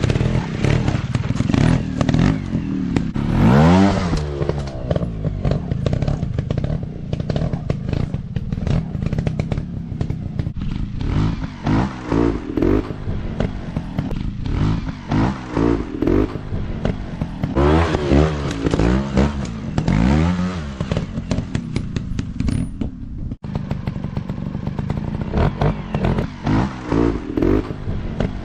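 Motocross dirt bike engine revving up and down again and again as it is ridden hard, with clattering and scraping noise.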